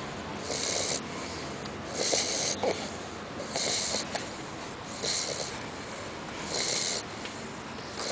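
Dogo Argentino puppy snoring, with a hissing, wheezy breath about every one and a half seconds, five in all.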